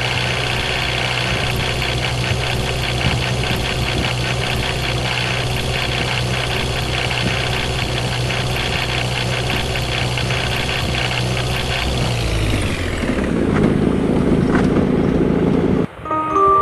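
A vehicle engine running steadily with a fine, even pulse. About twelve seconds in its pitch drops away and a louder, lower rumble takes over, then cuts off abruptly near the end.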